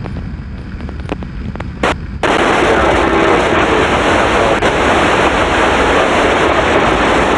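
Police scanner radio hissing with loud static: an open channel with no voice, starting abruptly about two seconds in. Under it runs the steady low rumble of the motorcycle ride.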